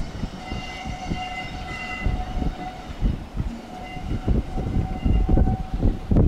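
Diesel-hauled heritage passenger train pulling away over curved track and points, with a low rumble and two spells of high ringing tones, each about two seconds long.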